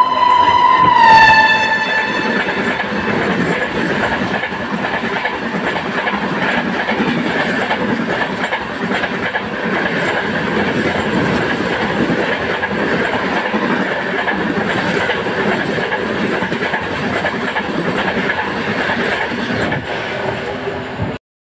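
An electric locomotive passes close by at speed, its horn sounding and dropping in pitch as it goes past, then stopping about a second in. The express's passenger coaches follow on the adjacent track with a steady rumble and clatter of wheels on rail for the rest of the time.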